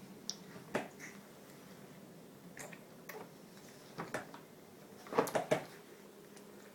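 Sparse soft clicks and smacks of a baby being spoon-fed cereal, loudest as a quick run of three about five seconds in, over a faint steady hum.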